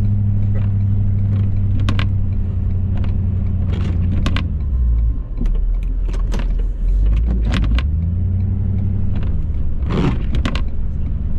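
Ford F-350's 6.7 Powerstroke turbo-diesel V8 running with a steady low drone. For a few seconds in the middle the drone drops lower, then it comes back up. Scattered short clicks and light rattles sound over it.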